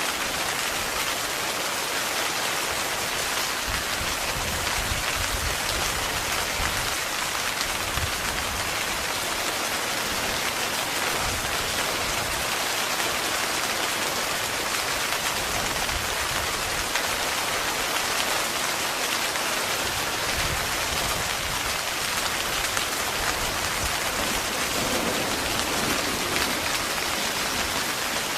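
Heavy rain falling steadily on a tent, a dense, even wash of drops with no let-up.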